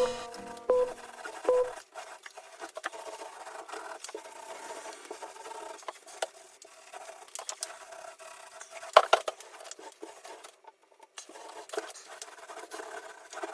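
Scraping and rubbing of a hand tool working a surface, with scattered small clicks and a sharp knock about nine seconds in. A short tail of music fades out at the start.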